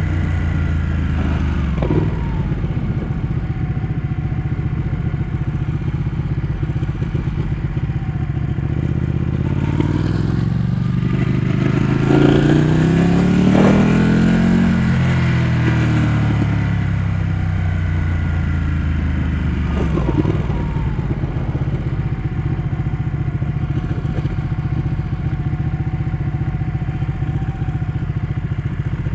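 Ducati 1199 S Panigale's Superquadro V-twin engine under way: it winds down at the start, runs steady, rises in pitch from about ten seconds in, then falls away by about twenty seconds and settles into a steady low run.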